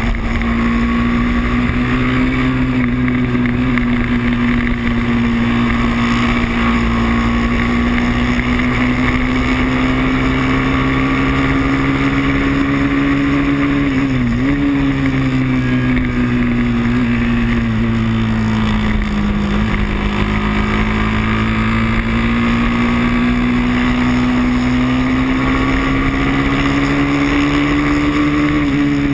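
Moto3 racing motorcycle's engine at high revs, heard from a camera mounted on the bike, with wind rushing past. The engine note climbs slowly, dips sharply for a moment about halfway, sags over a few seconds, then climbs again.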